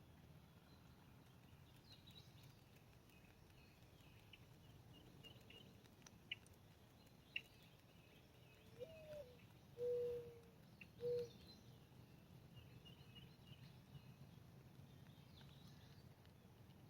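A dove cooing: a rising first note followed by two held lower notes, about nine to eleven seconds in. Small birds chirp faintly behind it.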